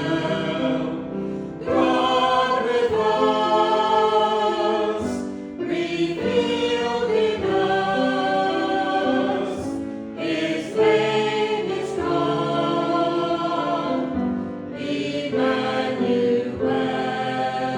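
Choir singing in sustained, chordal phrases, with short breaths between phrases every few seconds.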